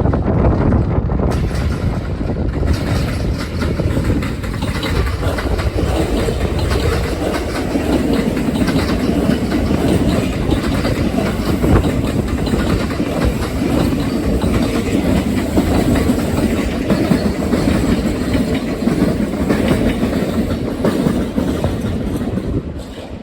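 Kintetsu electric train passing close by, its wheels clacking over the rail joints in a steady run of clicks. The sound eases off near the end as the train moves away.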